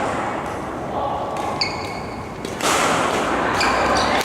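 Indoor badminton rally: a few short squeaks of shoes on the court floor and sharp hits, over a steady hall noise.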